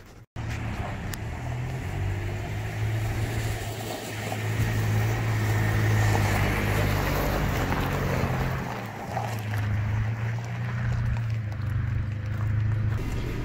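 2004 Honda Element's four-cylinder engine running, a steady low drone that swells a little through the middle.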